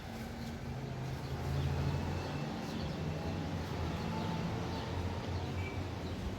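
A low engine hum that shifts in pitch a few times.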